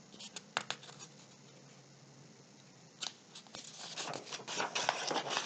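Paper pages of a picture book being handled and turned: a couple of soft clicks, a short quiet stretch, then a run of light paper rustles and clicks in the second half.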